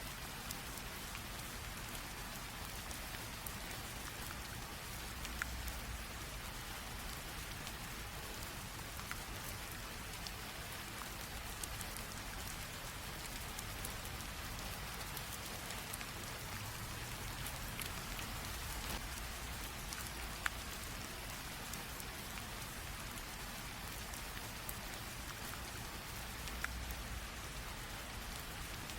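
Steady light rain falling on a surface, an even hiss with scattered individual drop ticks and a faint low rumble.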